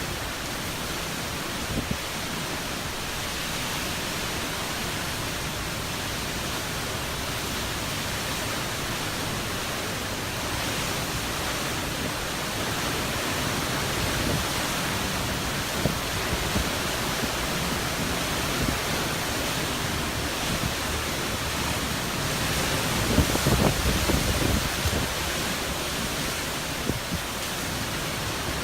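Hurricane wind blowing steadily, growing stronger through the stretch, with a hard gust about 23 seconds in that buffets the microphone with a low rumble.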